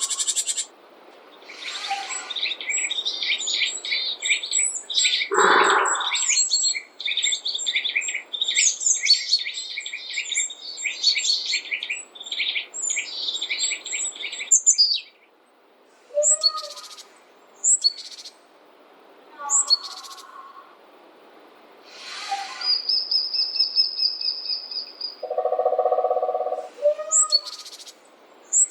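Wild forest birds calling and singing. A long, fast chattering song of repeated high notes runs through the first half, followed by scattered short calls, one held high whistle and a few lower calls.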